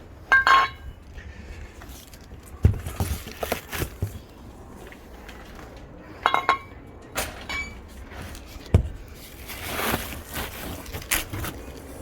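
Stainless steel exhaust pipes clinking and ringing as they are handled: two ringing clinks, one near the start and one about halfway through, with a couple of dull thumps and a rustle near the end.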